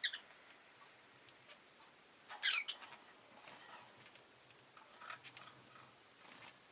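Rosy-faced lovebird giving short, high chirps: a brief one at the start, a louder wavering call falling in pitch about two and a half seconds in, and a few faint chirps near the end.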